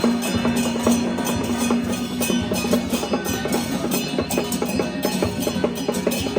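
Traditional Taiwanese temple music: a percussion ensemble of drums and wood-block strokes played in quick, dense strikes, with a held instrumental tone that fades about two seconds in.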